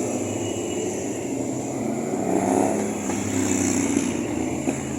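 Motorcycle engines running in the street, one revving up with a rising pitch about two seconds in.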